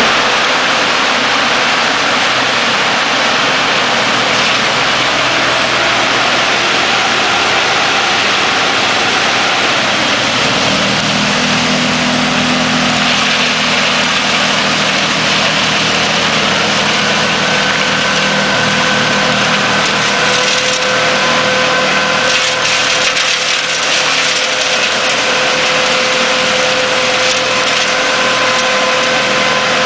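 Forwarder-mounted Erjo 9/93 wood chipper running loud and steady with the machine's diesel engine. Steady whining tones join about halfway in.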